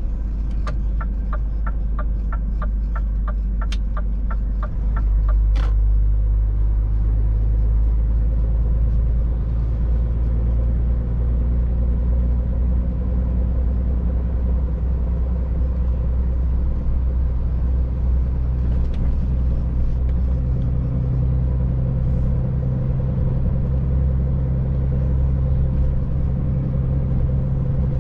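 A Scania Next Generation truck's engine and road noise heard from inside the cab while driving: a steady low drone that gets louder about five seconds in. Over the first five seconds a quick regular ticking runs on top, about two and a half ticks a second.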